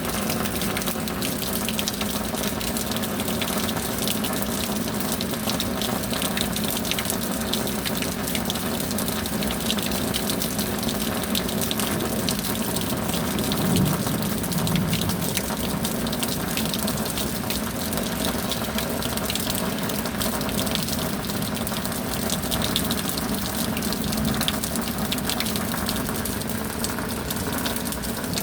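Steady heavy rain: a continuous rush of water dotted with countless small drop impacts, swelling slightly about halfway through.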